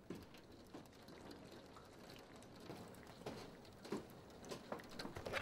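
Faint, scattered light taps and clicks over a low steady hiss, a few of them a little louder about four seconds in and near the end.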